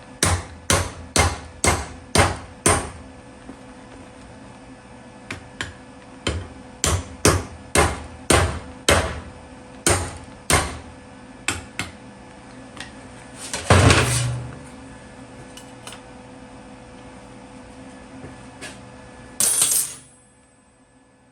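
Hammer blows on metal in quick runs of about two strikes a second, tapping a steel baffle plate along inside an exhaust tube to adjust its depth. Near the middle comes one louder, longer metallic clatter, and near the end a brief clank.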